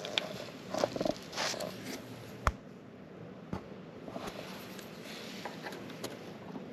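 Handling noise: scattered light clicks and rustles, with one sharper click about two and a half seconds in, over a low steady hiss.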